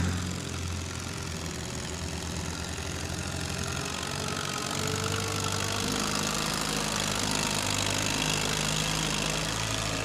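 Farm tractor engine running at low speed, growing a little louder about halfway through.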